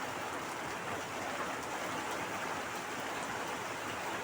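Steady rain falling and splashing on surfaces, an even hiss of water with no breaks.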